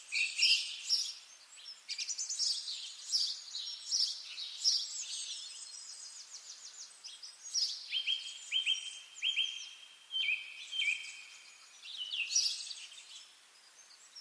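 Songbirds singing over one another: bursts of high chirps and rapid trills, several phrases overlapping at once.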